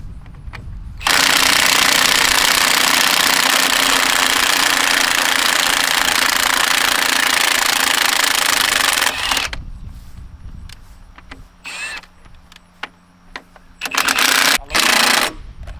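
Impact wrench hammering on the truck's wheel lug nuts to break them loose: one long run of about eight seconds that starts and stops abruptly, then clicks and knocks and two short bursts near the end.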